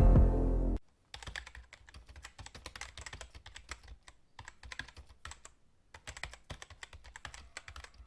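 Electronic music cuts off under a second in, followed by quick, irregular keyboard-typing clicks, several a second.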